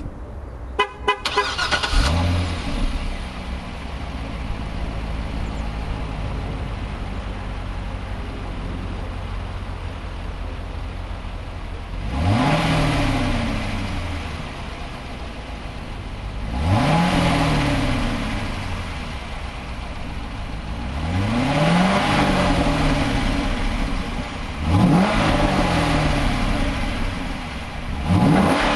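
Corvette C6's 6.2-litre LS3 V8 on its stock exhaust starting with a short crank and a brief flare about two seconds in, then settling into a steady idle. In the second half it is revved in five quick blips, each climbing sharply and falling back to idle.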